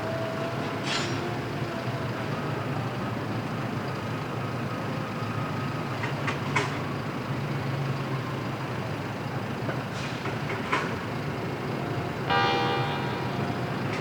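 Freight train running on the rails with a steady rumble, sharp wheel clicks coming in pairs every few seconds, and a brief pitched squeal about twelve seconds in.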